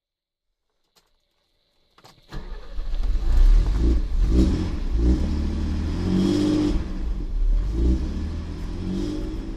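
A car engine that kicks in about two seconds in and is revved up and down several times.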